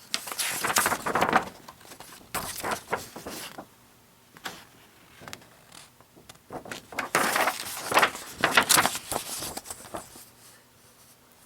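Paper rustling as the pages of an old car brochure are handled and turned, in three bouts of crackly rustle with quiet gaps between.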